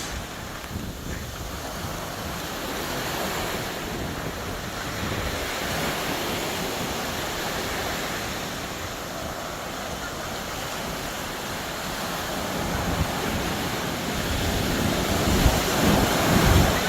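Sea waves washing onto a beach, with wind buffeting the microphone. The surf builds louder toward the end as a bigger wave comes in.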